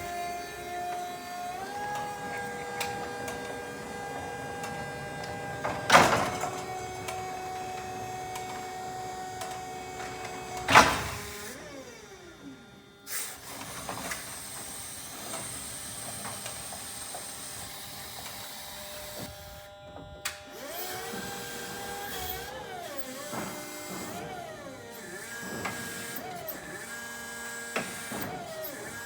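Electric motors of a Toyota 5FBE15 battery-electric forklift whining. A steady whine steps up in pitch early on, there are two sharp knocks a few seconds apart, and later the whine rises and falls repeatedly as the motor speeds up and slows down.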